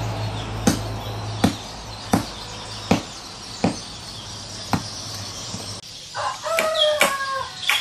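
A hand tool strikes the ground or wood with sharp blows, about one every 0.7 seconds, as fence posts are set for a chicken run. About six seconds in, a rooster crows over the strikes.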